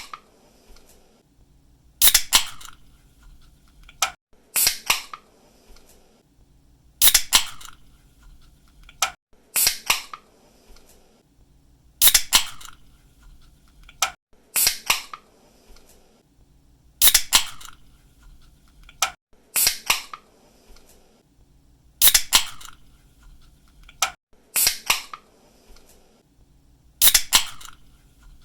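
Pull-tab of a soda can snapped open again and again: a sharp crack followed by a second click and a short hiss. It repeats about every two and a half seconds.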